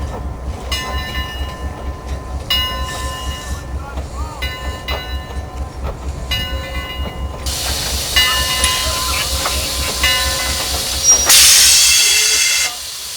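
The Eureka, an 1875 Baldwin 4-4-0 narrow-gauge steam locomotive, running on the line with a fast low rhythmic beat. High squealing tones come and go several times. Then a steam hiss builds, is loudest for about a second and a half near the end, and cuts off suddenly.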